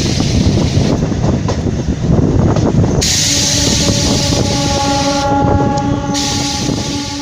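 Passenger train running past with rumbling and clattering wheels. About three seconds in, its horn sounds one long, steady blast that lasts nearly to the end, as the sound begins to fade.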